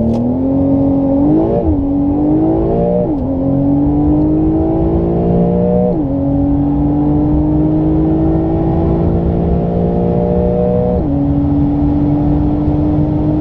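Porsche 992 911 flat-six under full-throttle acceleration from a launch-control start, heard from inside the cabin. The engine note climbs steadily in each gear and drops sharply at four quick upshifts, about 1.5, 3, 6 and 11 seconds in, each gear running longer than the last.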